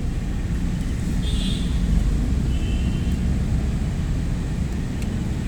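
Steady low background rumble, with brief faint scraping about a second in and again about two and a half seconds in, as the bonnet release cable is worked free from the car's lower dashboard panel.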